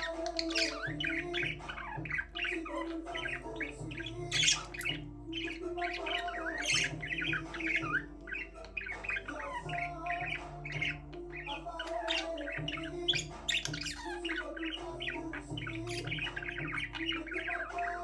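Budgerigars chirping and chattering nonstop, with many short, high chirps and squawks overlapping, over quiet background music with held notes.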